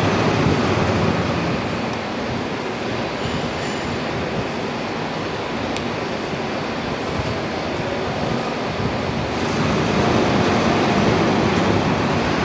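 Aluminium melting furnace running with a loud, steady rushing noise that swells a little about ten seconds in, with a few faint clicks.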